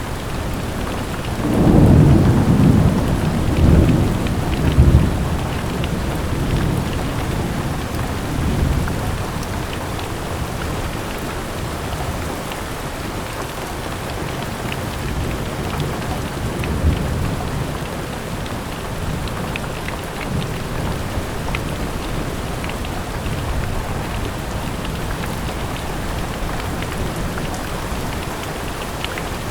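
Steady rain falling, with a low rumble of thunder a couple of seconds in that fades out over a few seconds.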